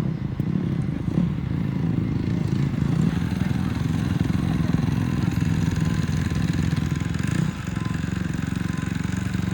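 Supercross dirt bike engines running hard on the track during practice, a continuous loud engine drone that dips briefly about seven and a half seconds in.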